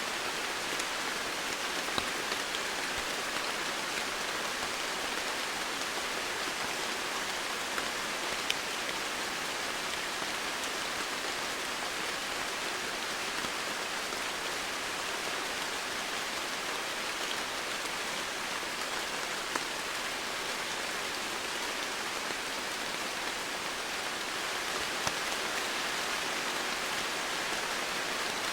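Steady rainfall, a constant hiss of rain with scattered individual drops ticking on surfaces.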